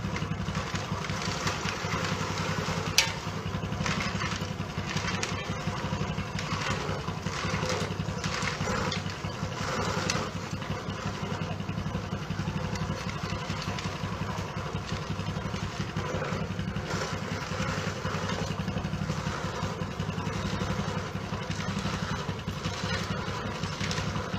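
Motorcycle engine running steadily at a constant speed, with one sharp click about three seconds in.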